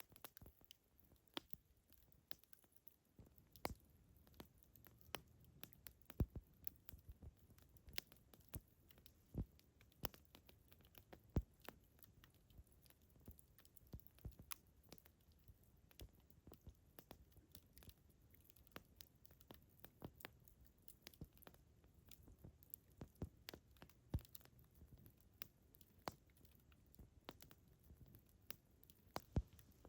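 Wood campfire burning and crackling: irregular sharp pops and snaps, several a second, some much louder than the rest, over a faint low background.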